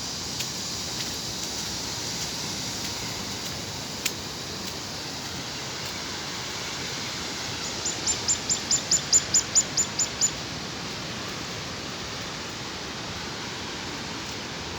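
Steady hiss of heavy rain falling. About eight seconds in, a bird gives a quick run of about a dozen high chirps, roughly five a second, lasting a couple of seconds.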